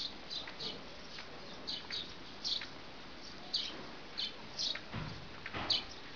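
Small birds chirping: short, high chirps repeating irregularly, one or two a second, over a steady outdoor hiss, with a low thump about five seconds in.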